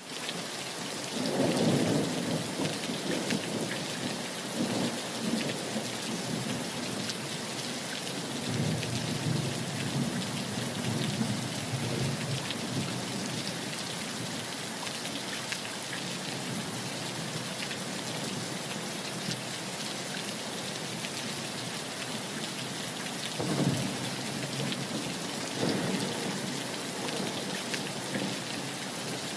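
Heavy rain falling steadily, with low rolls of thunder swelling up and fading a few times.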